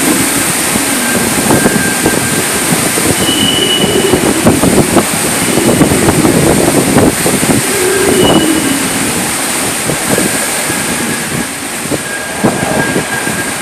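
Strong typhoon wind blowing in gusts, with a low howl that wavers in pitch and many short rattling knocks.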